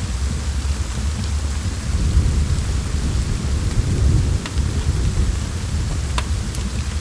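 Steady rain with a low rolling rumble of thunder that swells about two seconds in and eases off around five seconds. A few sharp pops of a crackling wood fire come near the end.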